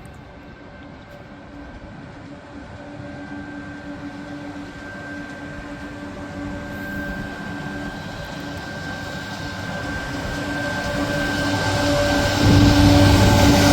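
A train approaching, its sound growing steadily louder with a steady hum of a few tones, and arriving close and much louder near the end.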